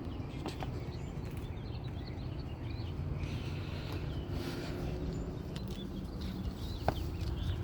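Outdoor ambience: a steady low hum with birds chirping faintly over it, and a single sharp click near the end.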